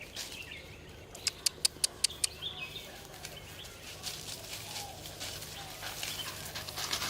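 Birds chirping, with a quick run of six sharp clicks a little over a second in.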